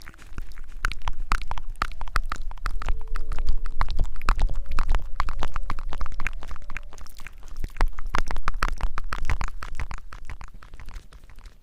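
Dense, irregular crackling and rubbing right against the microphone, over a low rumble: close-miked ASMR trigger sounds. It thins out near the end.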